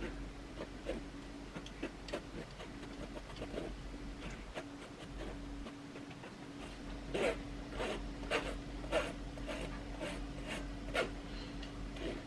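Flour being sifted through a sieve into a bowl: irregular light taps and scratchy rubbing from the sieve, coming more often in the second half, over a steady low hum.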